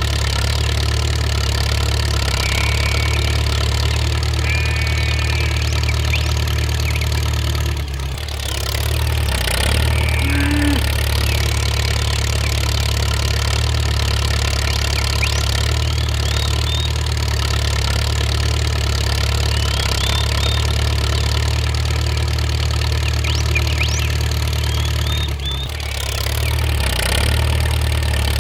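A steady, low engine drone like an idling motor, dipping briefly about eight seconds in and again near the end, with a few faint high chirps over it.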